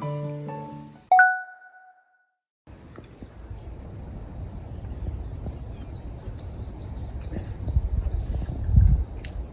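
Background music fades out and a single bell-like ding rings out and decays. After a brief gap of silence, outdoor ambience follows: a steady low rumble with a bird calling in a quick series of high chirps, and a louder low swell near the end.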